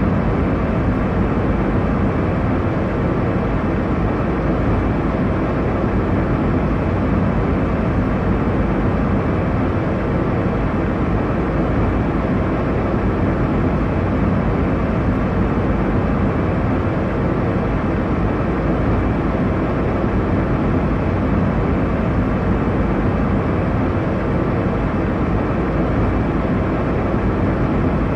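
Airliner cabin noise in cruise: a steady, deep rushing drone of engines and airflow, without change.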